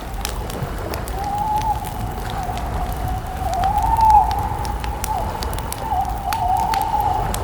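Wood campfire crackling with frequent sharp pops over a low rumble, while a steady wavering tone rises and falls in pitch, swelling loudest about four seconds in.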